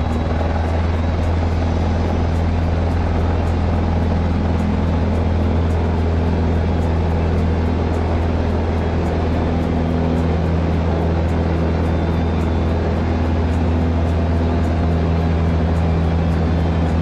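Cessna 150's Continental O-200 four-cylinder engine and propeller, heard from inside the cabin, running at a steady high power setting with a constant drone.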